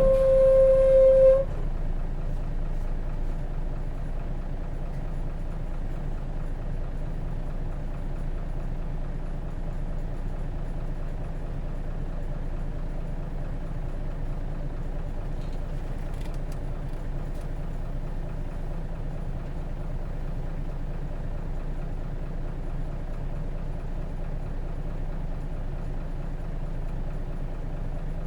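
A loud steady electronic tone sounds for about a second and a half at the start. After it, the Hino RJ bus's J08C six-cylinder diesel runs steadily, heard from inside the cabin, with the bus under way at an even pace.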